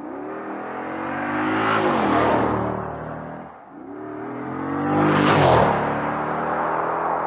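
6.4L Hemi V8 running through a Flowmaster American Thunder stainless cat-back exhaust with Super 44 mufflers, rising in pitch and loudness as it accelerates, then easing off, twice; the second swell is the louder.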